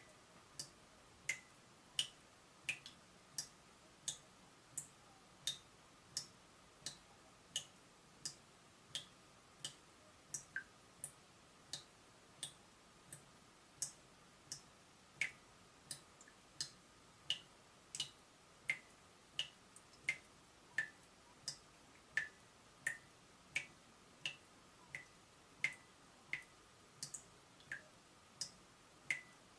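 Water dripping from a leaking tap, one drop roughly every 0.7 seconds, each a short plink whose pitch changes from drop to drop.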